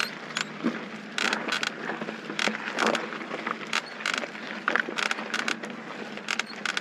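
Mountain bike rolling over a dirt fire road: a steady tyre hum with frequent sharp rattles and clicks from the bike jolting over the rough ground.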